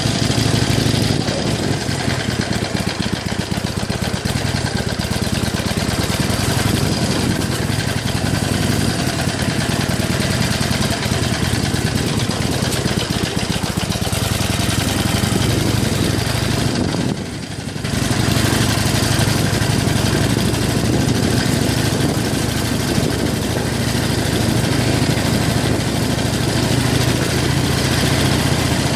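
Harley-Davidson Iron 883's air-cooled V-twin running steadily on a rough forest track, with a brief drop in level about 17 seconds in.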